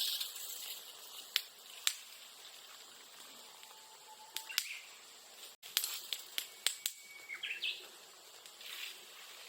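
A freshly lit bonfire of sasa bamboo grass and bamboo crackling and popping in sharp, irregular snaps, thickest about six to eight seconds in. A bird whistles faintly in the background.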